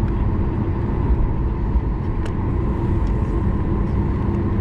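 Boeing 737 MAX 9 cabin noise while taxiing after landing: a steady low rumble with a steady engine hum, and one faint click about two seconds in.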